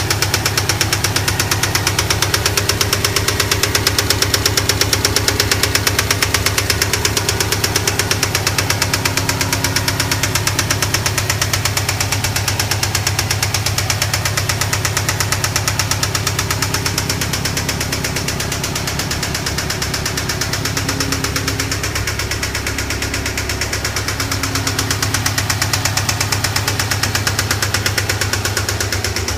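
2008 Subaru WRX STI's turbocharged flat-four engine running with a rapid, steady knocking from its bottom end: rod knock from a spun connecting-rod bearing, bad enough that the engine needs a rebuild.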